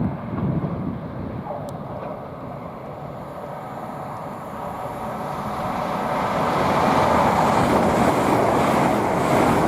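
LNER Azuma (Class 800) high-speed train approaching and passing at speed. Its wheel-on-rail and air rush builds over the second half to a loud, steady roar as it goes by.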